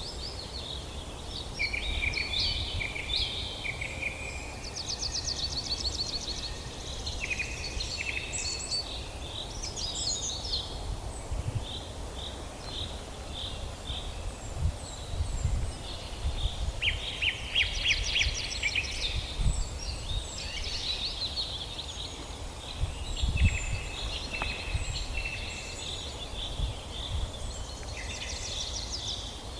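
Several wild birds singing and calling together: short chirps and rapid buzzy trills, overlapping throughout. Underneath, a low rumble comes and goes in gusts and is loudest about halfway through and again around three quarters of the way in.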